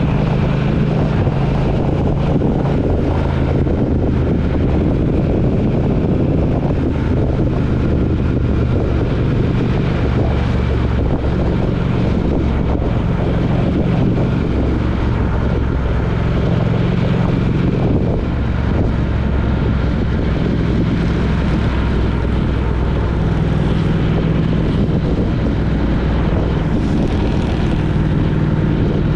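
A vehicle's engine running under way, with steady road and wind noise; the engine's low hum shifts in pitch several times.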